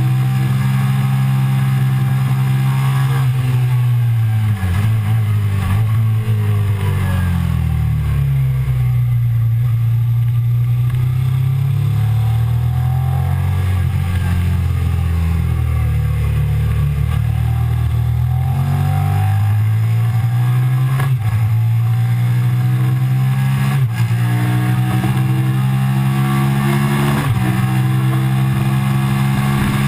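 Suzuki SV650's V-twin engine, heard from a camera mounted on the bike, being ridden hard on a race track. The engine note falls as the bike slows for a corner, stays low through it, then climbs as it accelerates out, with sudden pitch drops three times near the end as the rider shifts up.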